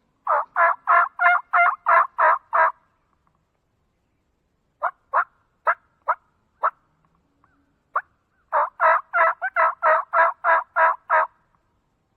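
Hen turkey yelps on a hunter's turkey call, used to get a gobbler to answer. A run of about eight evenly spaced yelps comes first, then a few single clucks, then a longer run of about a dozen yelps near the end.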